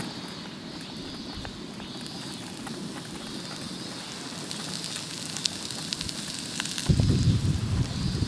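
Wood campfire crackling, with scattered sharp pops over a steady hiss. Near the end a sudden, louder low rumble of wind on the microphone comes in.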